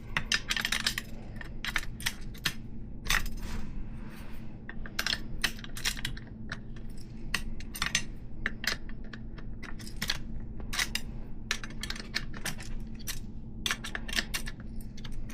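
Wrench turning a steel cone nut along a BMX hub axle: an irregular run of sharp metallic clicks and clinks, several a second.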